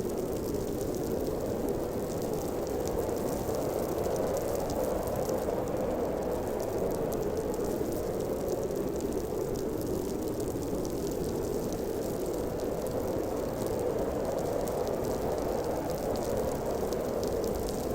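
Steady blizzard wind: a dense, low rushing noise that swells and eases slightly, with faint fine ticking high up.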